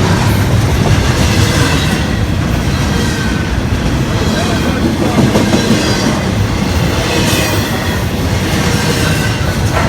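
A train's railcars rolling past on the track: a steady, loud rumble with rhythmic clickety-clack of the wheels over the rail joints.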